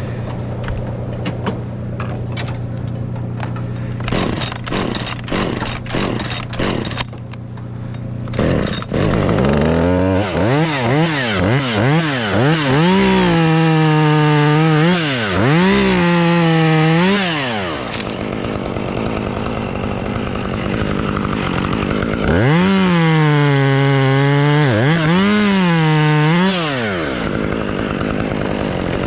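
A small chainsaw starts about eight seconds in after some short rattling strokes. It is revved up and down in quick throttle blips, a run of about four and then, after a spell of steadier running, a run of about three.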